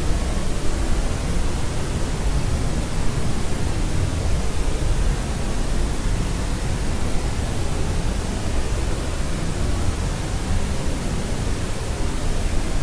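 Steady synthetic sleep noise, an even hiss-like rush with more weight in the low end than pure white noise, unchanging.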